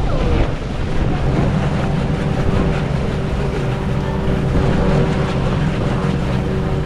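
Boat engine running steadily, with wind rumbling on the microphone and a steady pitched hum from about a second in.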